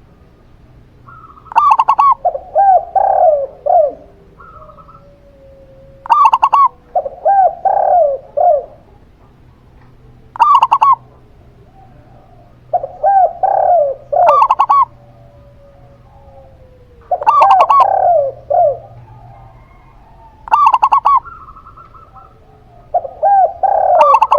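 Zebra dove and spotted dove cooing. Six phrases come about every four seconds, each a higher opening note followed by a quick run of rolling coos.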